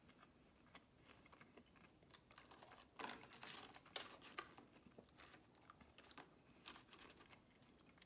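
Faint chewing of General Tso's chicken, with a brief cluster of louder crackles and clicks about three seconds in as pieces of the chicken are moved around on a paper plate.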